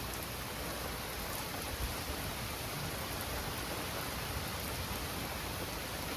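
Steady rain falling during a thunderstorm, an even hiss of rain with no distinct thunder clap.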